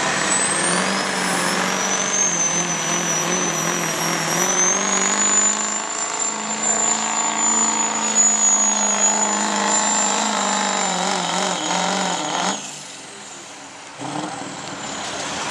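Pulling vehicle's engine running hard under load during a pull run, with a thin high whine that climbs in pitch over the first few seconds and then holds. The engine sound drops away abruptly about three-quarters of the way through.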